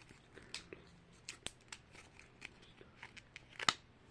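Small plastic blind bag being handled and opened: scattered faint crinkles and clicks, with one sharper click near the end.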